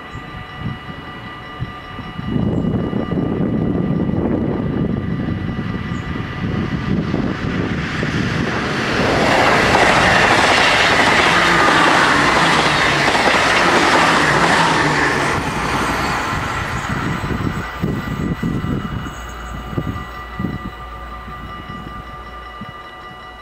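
Dutch double-deck electric passenger train passing over a level crossing: its rumble builds from about two seconds in and is loudest for several seconds in the middle with wheel noise and clatter, then fades away. Over it the crossing's warning bells ring steadily, stopping near the end as the barriers go up.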